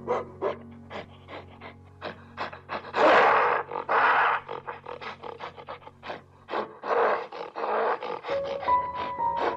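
An animal's rough, noisy calls: a quick run of short sounds, then two longer harsh calls about three and six and a half seconds in, over soft background music.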